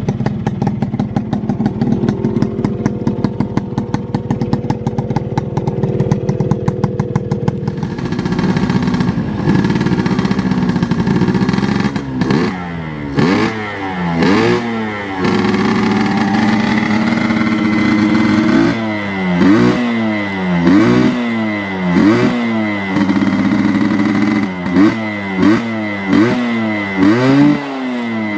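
Suzuki Satria Hiu's single-cylinder two-stroke engine, freshly rebuilt, idles steadily. From about twelve seconds in, the throttle is blipped over and over, the engine revving up and dropping back about once a second. Its exhaust joint is leaking for lack of a gasket.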